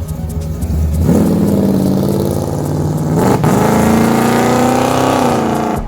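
A car engine revving hard as the car accelerates, its pitch climbing, dropping sharply for a gear change about three seconds in, then climbing again.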